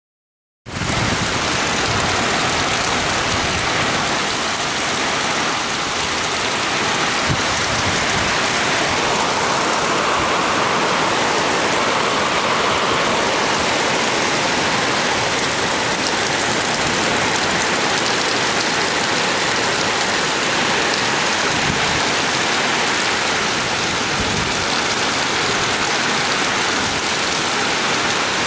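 Heavy rain and strong storm wind making a dense, steady hiss that starts abruptly just under a second in, swelling slightly midway.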